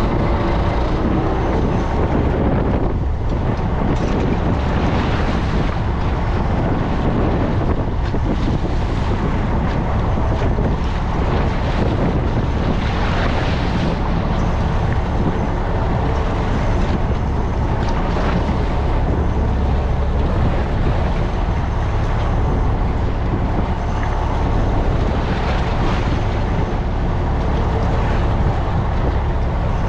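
Fishing boat under way, its engine droning steadily, with wind buffeting the microphone and water rushing past the hull in recurring surges.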